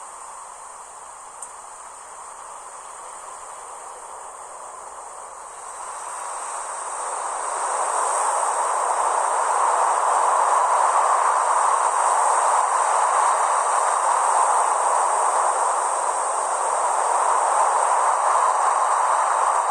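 Ocean surf washing in, swelling louder about six seconds in and then staying loud, over a steady high insect trill.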